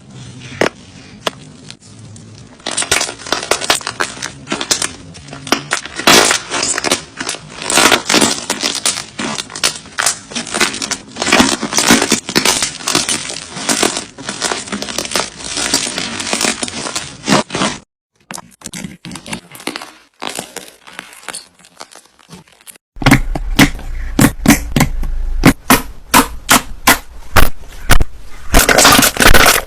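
Slime being pressed and squeezed by hand, giving dense crackling and popping with many quick clicks. The sound changes abruptly twice, near the two-thirds mark and again a few seconds later, where one clip cuts to the next.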